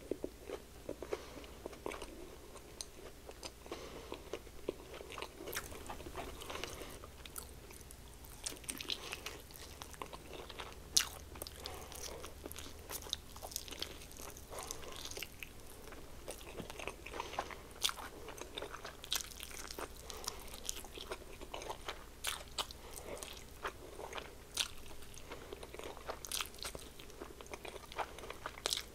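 Biting and chewing crispy fried chicken wings: irregular crunches and mouth clicks throughout, with one sharper crunch about eleven seconds in.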